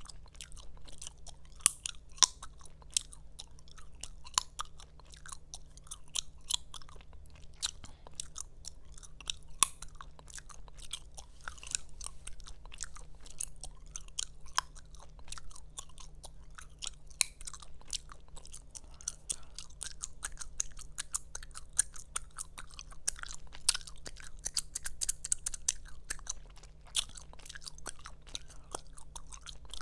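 Gum chewed close to the microphone: wet smacking and clicking mouth noises in an irregular stream, with an occasional sharper, louder snap of the gum.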